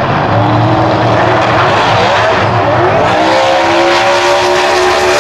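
Twin-turbo V8 drag car at full throttle, loud and continuous; the engine note climbs about two to three seconds in and then holds steady.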